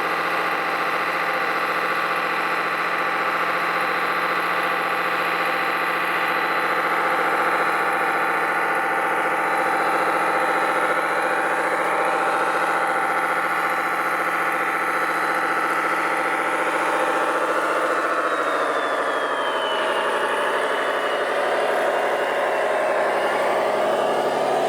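A radio-controlled truck running with a steady engine-like drone. About three-quarters of the way through, the pitch drops and starts to waver.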